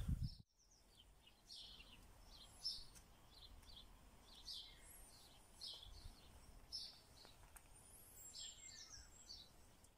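Faint birds chirping: many short, high calls scattered over a quiet background hiss. The sound drops out completely for a moment near the start.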